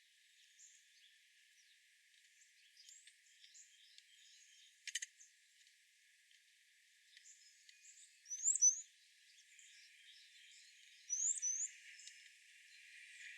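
Wild songbirds chirping: scattered faint chirps, a short sharp note about five seconds in, and two louder quick rising chirps about eight and a half and eleven seconds in.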